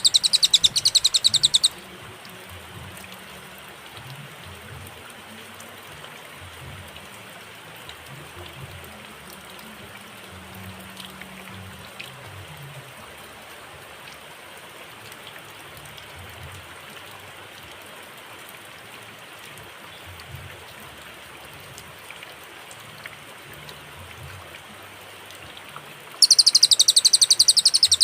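Cililin song from a bird-training recording: a loud, very fast trill of repeated high notes for the first second and a half, then a long pause of faint hiss and low rumble, then the trill starts again near the end.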